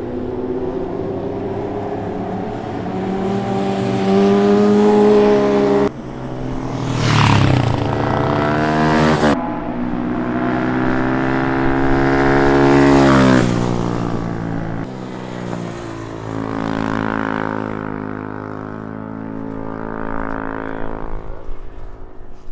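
Honda Grom's small single-cylinder four-stroke engine revving as the motorcycle rides past. The pitch climbs under acceleration, then drops sharply as it goes by, twice. The sound changes abruptly several times, and the engine is fainter toward the end.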